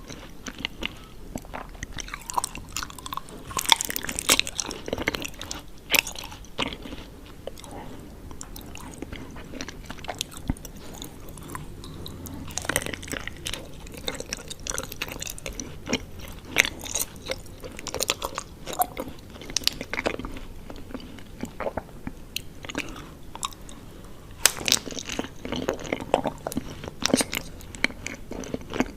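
Close-up chewing and biting of honeycomb, with wet, irregular crackling and crunching of the wax comb and louder clusters of bites at intervals.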